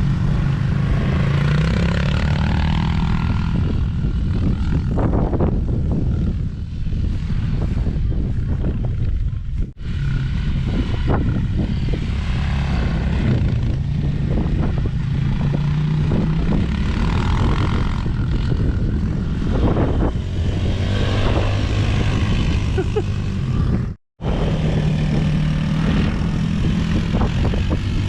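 Small single-cylinder four-stroke engine of a youth dirt bike or ATV running, its note rising and falling with the throttle. The sound cuts out briefly twice.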